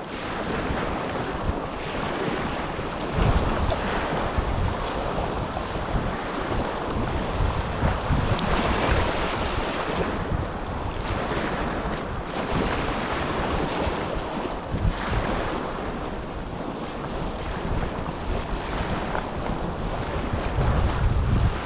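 Small waves washing on the Dead Sea shore in surges, with wind buffeting the microphone as a low rumble.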